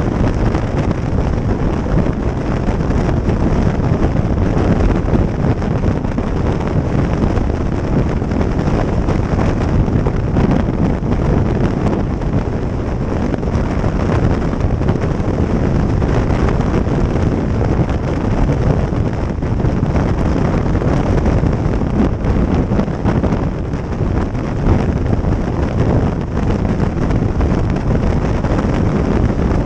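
Steady wind rush buffeting the microphone of a moving motorcycle, mixed with the bike's running and road noise.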